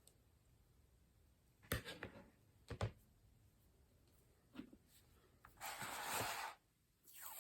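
Paper and craft tools handled on a desk: two sharp clicks about a second apart, a faint tick, then about a second of paper scraping or rustling.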